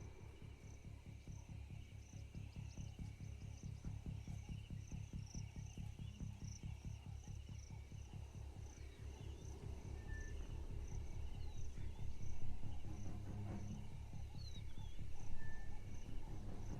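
Night insects, crickets among them, chirping steadily at about two or three chirps a second, over a low, pulsing soundtrack of music that swells twice toward the end.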